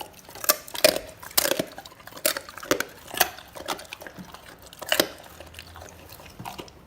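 Dogo Argentino chewing raw chicken and anchovies, crunching the bones with irregular sharp cracks that thin out after about five seconds.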